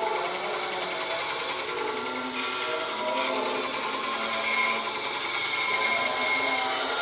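RYU RBS 8 bandsaw running with its blade cutting through wood: a steady whirring hiss with faint shifting tones.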